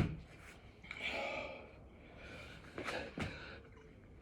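A man breathing hard in gasping exhales while doing six-count burpees. A sharp thump at the very start is the loudest sound, and a couple of shorter knocks come about three seconds in.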